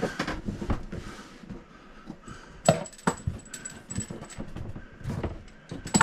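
Hands fumbling with a plastic water-line fitting and hose behind a toilet: scattered small clicks and knocks, the sharpest about two and a half seconds in and again near the end.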